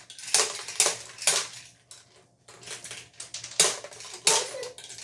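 Sharp clacks of small hard plastic toy pieces striking each other and the table, about five in two clusters: three in quick succession in the first second and a half, then two more later.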